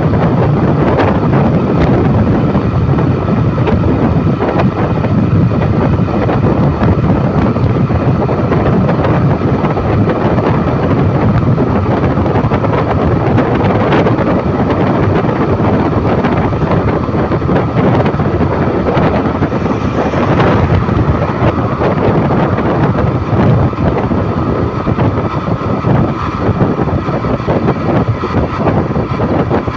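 A vehicle on the move: a loud, steady rumble of engine and road noise, with wind buffeting the microphone.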